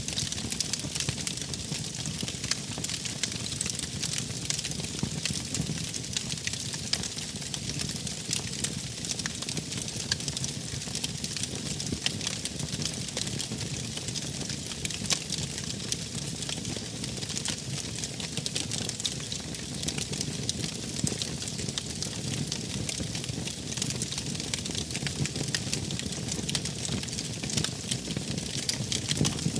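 Wood fire burning: a steady hiss and low rumble with frequent small crackles and pops.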